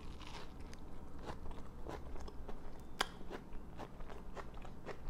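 Close-miked biting into and chewing a soft chickpea-flour flatbread sandwich with tomato and sprouts: irregular small mouth clicks, the sharpest about three seconds in.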